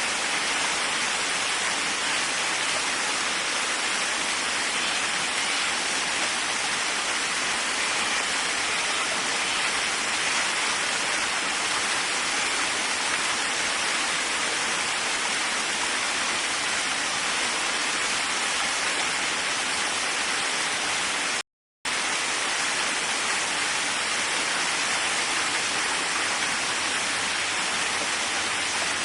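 Waterfall: a steady, even rush of falling water, with a brief total dropout in the sound about two-thirds of the way through.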